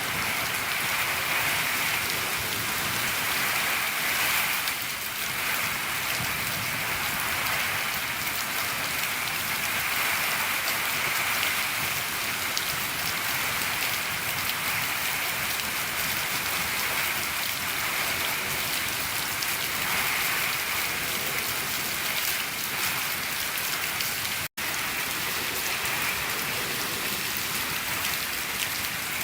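Steady rain falling on a shed roof, an even, unbroken patter. It has a split-second gap about five seconds before the end.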